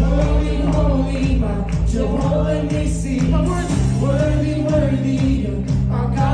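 Gospel praise music: several voices singing over a band with sustained bass notes and percussion keeping a steady beat.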